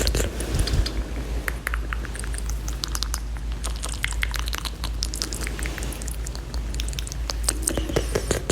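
Fast ASMR mouth sounds made close to the microphone: a dense, irregular run of quick clicks and smacks, busier near the end.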